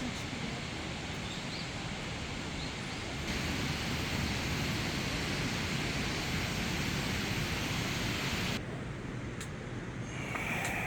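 Steady rushing of a mountain stream. It gets louder about three seconds in and drops back near the end.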